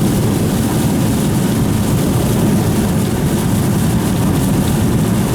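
Steady rumble of a car driving, heard from inside the cabin, with an even hiss over it.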